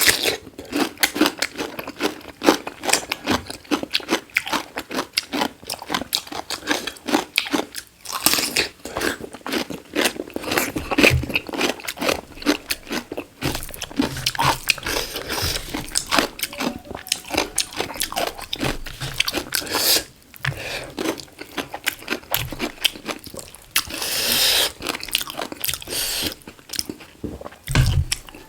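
Close-miked eating of black chicken: a person biting and chewing in rapid, crunchy clicks, pausing briefly a few times between mouthfuls.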